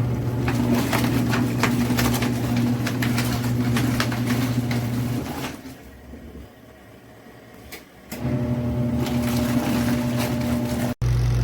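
Electric motor of a portable twin-tub washing machine running with a steady hum and a light rattle for about five seconds, stopping for a couple of seconds, then starting again. The sound cuts off abruptly near the end and a steadier hum takes over.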